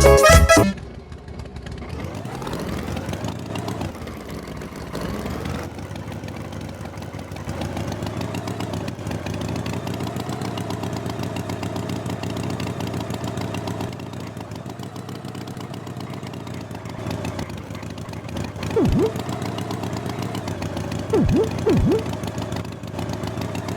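Music cuts off in the first second, then a tractor engine runs steadily, with a few brief louder pitch dips near the end.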